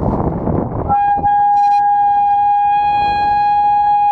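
A short rush of noise, then about a second in a bank of megaphones switches on together, sounding one loud, steady high-pitched tone with no change in pitch, aimed at a glass to try to shatter it by sound.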